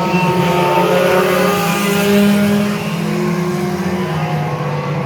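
Several stock car engines running hard as the cars race past together, their overlapping engine notes rising and falling slightly.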